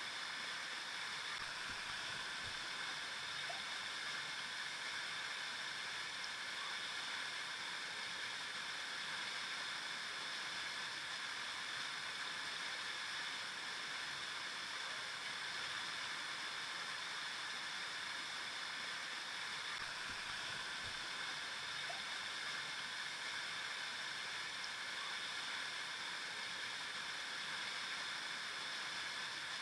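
Flowing river water rushing steadily, an even, unbroken wash of sound.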